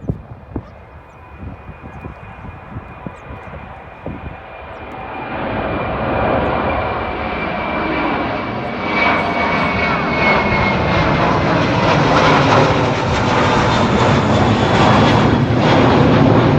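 Jet airliner's engines on a takeoff departure, growing much louder about five seconds in and staying loud, with a thin high whine that slowly drops in pitch.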